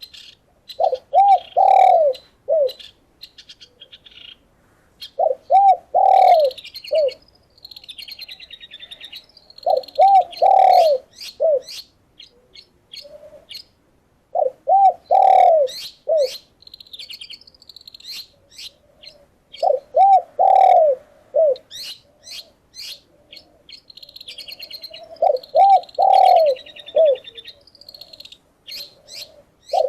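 A dove cooing: a phrase of several looping notes, repeated about every five seconds. Behind it, small songbirds keep up constant high chirps and trills.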